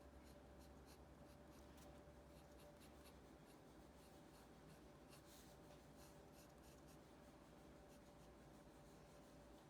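Faint pencil strokes scratching on drawing paper, many short quick strokes in irregular runs, over a faint steady electrical hum.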